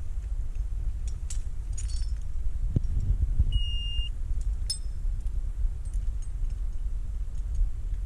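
Tractor engine running steadily under scattered metallic clinks and jingles, like chain or winch hardware rattling, with one short electronic beep about three and a half seconds in.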